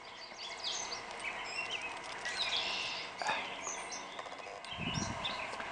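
Several songbirds chirping and singing, many short high calls overlapping over a light background hiss. There is a brief low thump about five seconds in.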